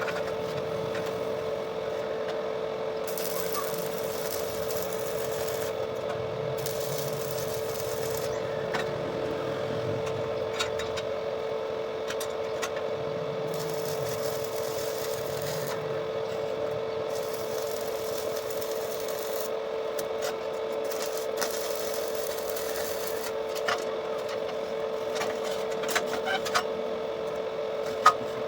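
Electric arc welding on a motorcycle exhaust pipe: a steady hum with a rasping crackle, whose hiss comes and goes every few seconds as the arc is struck and broken, with a few sharp clicks.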